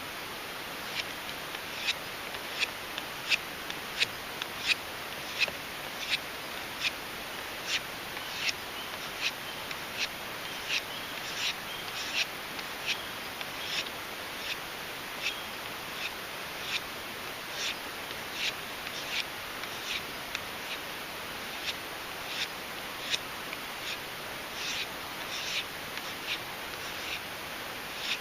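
Condor Bushlore knife blade being stropped on a leather belt, short even strokes at about three every two seconds. This is the final stropping that finishes the edge after the Arkansas stone.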